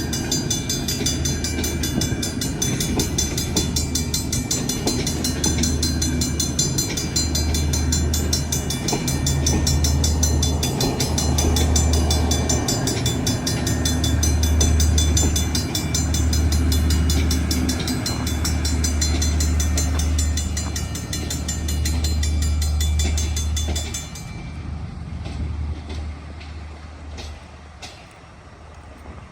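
Passenger train passing close by: a loud, continuous rail noise with a low rumble that pulses every second or two. About 24 seconds in it turns sharply quieter as the train moves away.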